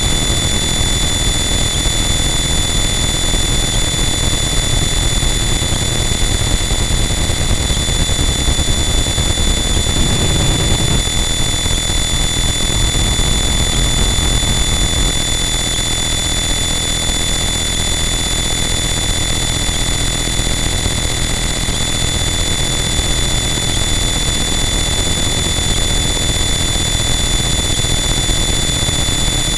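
Harsh noise wall: a loud, unchanging wall of dense distorted electronic noise, with a few steady high-pitched tones held on top and a brief low swell about ten seconds in.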